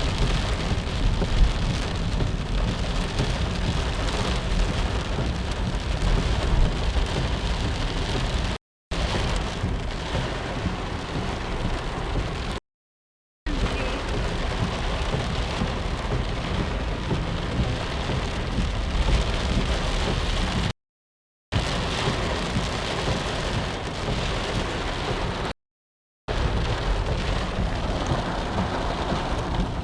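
Heavy rain pouring steadily, broken four times by brief dead-silent gaps where the recording cuts.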